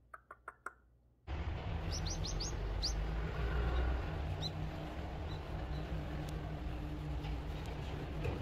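A few soft clicks, then outdoor ambience with a steady low rumble. Small birds chirp over it: a quick run of about five short rising chirps about two seconds in, and a few single chirps later.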